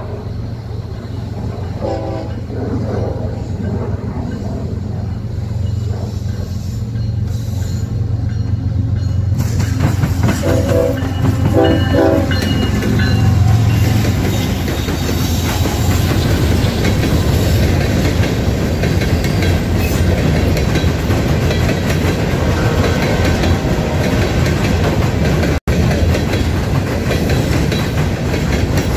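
Union Pacific diesel locomotives approaching and passing, with the horn sounding about two seconds in and again in a couple of short blasts around ten to twelve seconds in. The engines' rumble is loudest as the locomotives go by. After that, loaded hopper cars of a gravel train roll past with the clickety-clack of wheels over rail joints.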